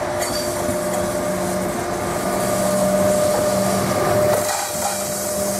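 Train running at speed: steady noise with a few steady humming tones through it.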